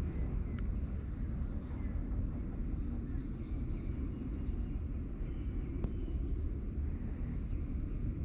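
A songbird singing two phrases of quick repeated sweeping notes, the second louder, about three seconds in. Under it is a steady low rumble, and a single sharp tick comes near six seconds.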